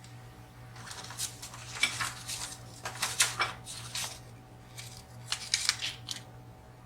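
Small metal lock parts and tools being handled on a hard surface: a run of sharp clinks and clicks, busiest in the middle, dying away near the end.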